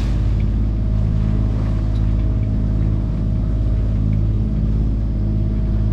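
A sailing yacht's inboard diesel engine running steadily under way, a constant low drone.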